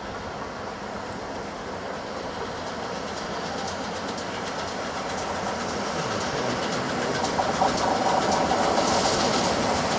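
Steam-hauled passenger train headed by GWR Castle class 4-6-0 5029 Nunney Castle approaching and growing steadily louder, with wheels clicking over the rail joints. A hiss joins near the end.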